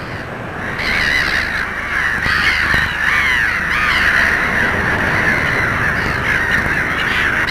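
A flock of birds calling together, many short overlapping calls at once, growing louder about a second in.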